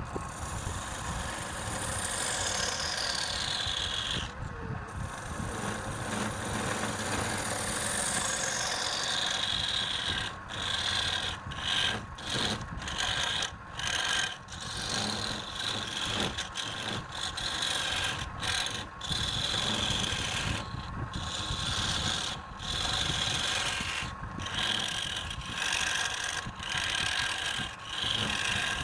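Wood being worked with a power tool: a continuous rasping, scraping noise with a high whine that twice falls in pitch early on. From about ten seconds in the rasp breaks off briefly again and again, in short strokes.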